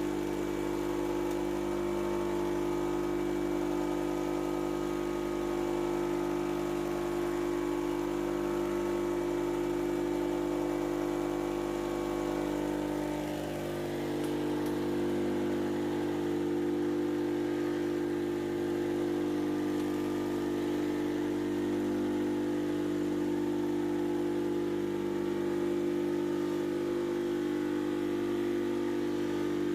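An electric power tool's motor running steadily at constant speed, with a strong steady hum. Its level dips briefly and its pitch shifts slightly about 13 seconds in.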